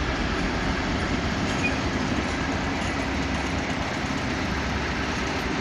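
A train running steadily through the station: an even rumble with a low engine hum that stays the same throughout.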